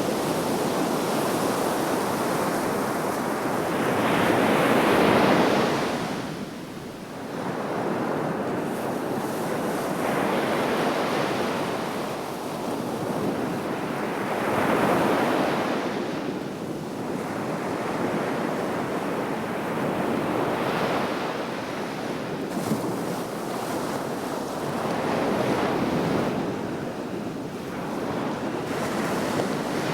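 Sea waves breaking and washing on the shore, the surf swelling and falling back in surges about every five seconds.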